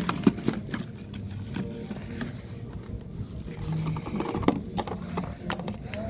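Scattered light clicks and knocks from hands handling a used oil filter and its parts.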